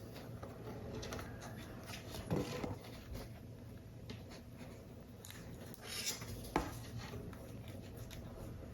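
Paper model parts being handled: light paper rustles and small taps against a work surface, with a louder rustle-tap about two seconds in and a sharp tap about six and a half seconds in.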